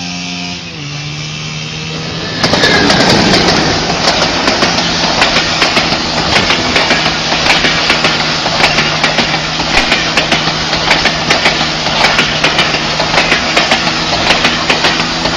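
An engine running steadily, its pitch dropping slightly under a second in. About two and a half seconds in, a loud rushing noise with rapid, irregular clatter sets in over it and carries on.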